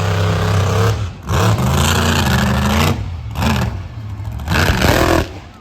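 Monster truck engines running hard during a race, in about four loud throttle surges with brief dips between, some rising in pitch as they rev.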